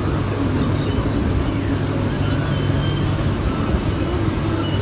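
Mumbai suburban electric train running: a steady, loud rumble with a constant low hum.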